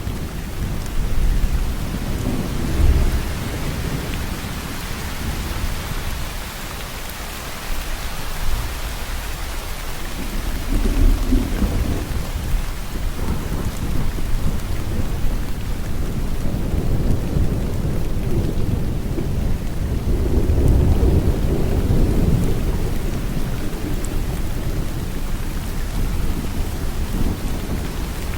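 Steady rain falling, with low thunder rumbling and swelling several times: near the start, about eleven seconds in, and longest about twenty seconds in.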